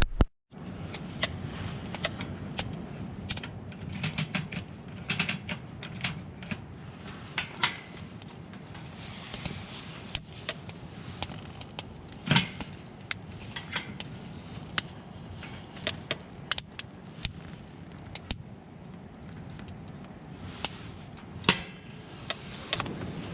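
Irregular sharp clicks, snaps and a few heavier knocks, like small objects or wood being handled, over a faint steady hiss; the loudest knock comes about halfway through.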